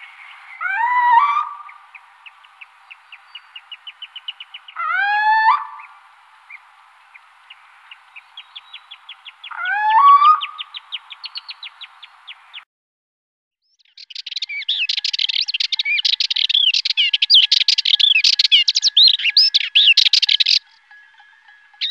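Wild birds calling and singing. First a bird gives a loud rising call three times, roughly every four to five seconds, with fast trains of ticking notes between the calls. After a short silence about halfway, a dense, fast, high-pitched chattering songbird song follows and breaks off briefly near the end.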